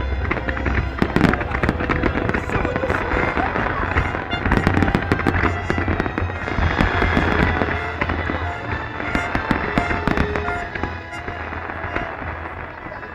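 Fireworks display: a dense, continuous run of bangs and crackling bursts, thinning a little near the end.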